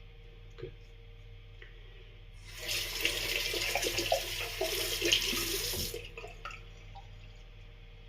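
Bathroom tap running into a sink for about three and a half seconds, starting a couple of seconds in and then shut off, with splashing in the basin.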